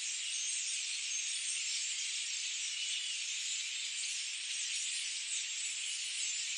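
Dense chorus of many small forest birds, their short, high, sweeping chirps layered over a steady high-pitched hiss.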